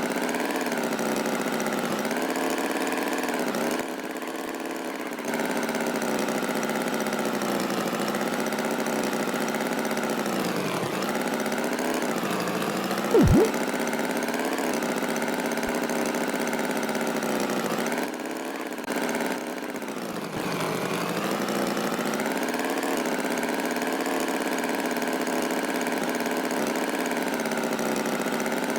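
Tractor engine sound effect running steadily, its pitch wavering up and down, with a short, loud, falling sound effect about 13 seconds in.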